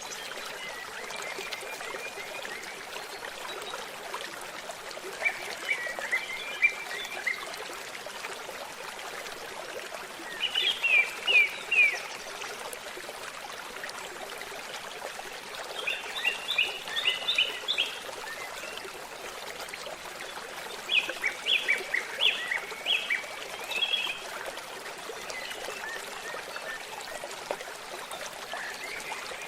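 Babbling stream running steadily, with a songbird singing short phrases of quick repeated chirps about every five seconds.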